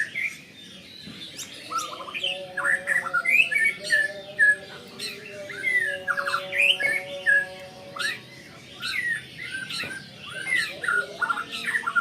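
White-rumped shama singing hard, a rapid, varied run of short whistled sweeps and chattering notes with only brief pauses. This is its aroused song at the sight of a rival.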